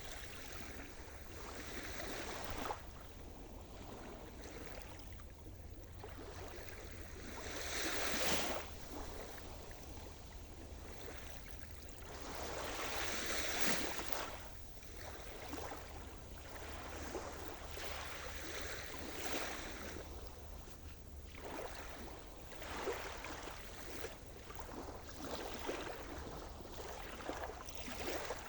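Sea surf washing ashore: waves swelling and breaking in a steady wash, with two larger waves about eight and thirteen seconds in.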